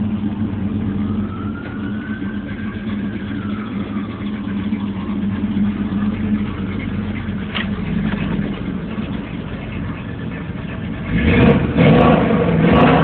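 Cammed Chevy 350 small-block V8 in an old truck, idling steadily, then revved hard about two seconds before the end. A siren rises and falls faintly in the background during the first few seconds.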